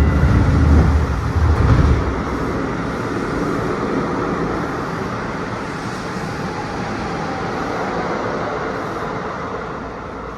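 Seibu New 2000 series commuter train running, heard from on board: a steady rumble of wheels on rail and traction noise. A louder low rumble fills the first two seconds, and the noise eases off slightly near the end.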